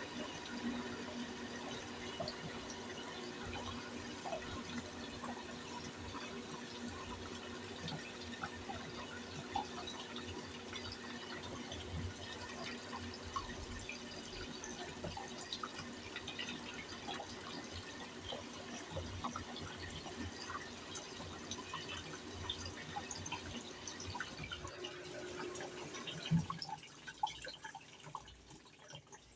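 Brastemp top-loading washing machine filling with water: a steady trickle and splash of water into the tub with small drips and ticks, over a faint hum. It dies away near the end.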